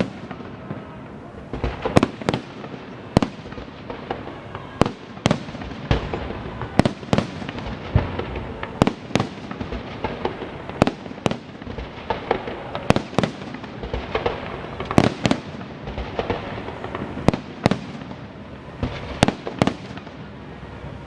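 Festive fireworks salute: aerial shells bursting in quick, irregular succession, about one or two sharp bangs a second, over a continuous crackle.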